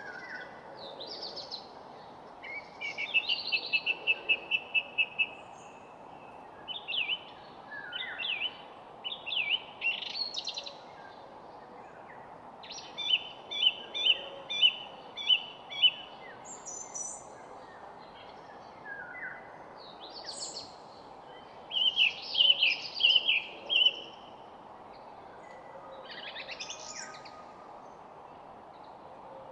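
Several songbirds singing in turn, in short phrases and quick runs of repeated chirps with pauses between, over a steady background noise.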